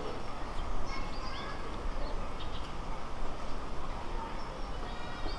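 Steady outdoor background noise with a few short, high bird chirps.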